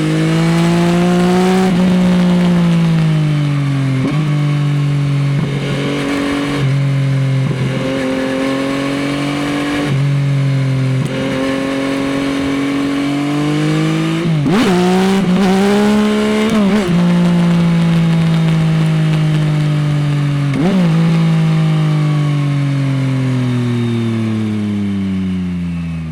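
Yamaha XSR900's three-cylinder CP3 engine through an Akrapovič exhaust: it accelerates through the gears with short breaks at each shift, and engine-brakes into corners. The pitch rises and falls quickly several times around the middle, and near the end it falls steadily in one long deceleration.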